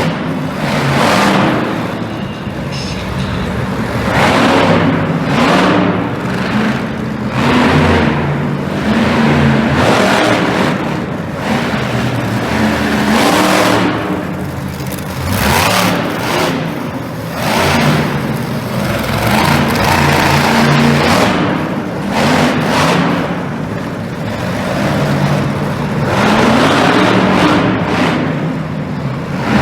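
Monster truck engine revving hard again and again, its pitch rising and falling in repeated surges every second or two.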